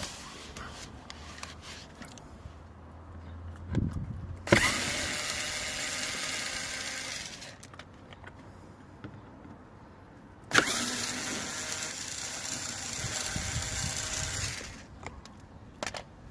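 Power tool run in two bursts of about three and four seconds, each starting sharply, undoing the fasteners of the engine undershield. Small clicks and handling noises come between the bursts.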